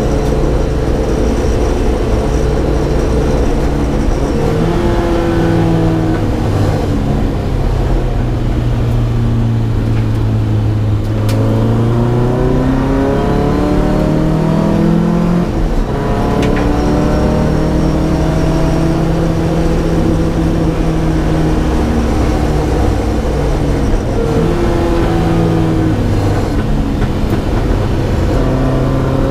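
Datsun P610 rally car's inline-four engine driven hard, its note climbing and dropping several times as it accelerates, shifts and slows.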